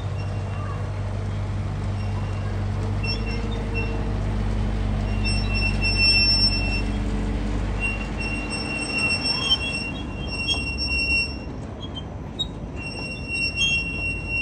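Children's ride train passing on its track: a low, steady running hum that fades about eight seconds in, and high-pitched squeals from the wheels that come and go from about three seconds in.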